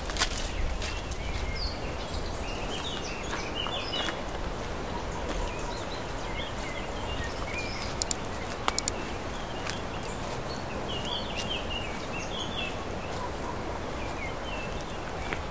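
Small forest birds chirping and twittering on and off over a steady outdoor background hiss. A few sharp clicks a little past halfway stand out as the loudest sounds.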